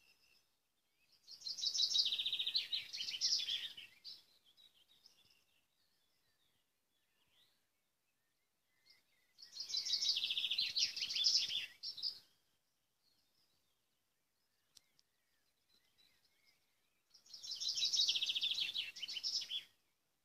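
A songbird singing three song phrases, each a fast run of high trilled notes lasting about two and a half seconds, spaced about eight seconds apart, with faint chirps in the quiet between them.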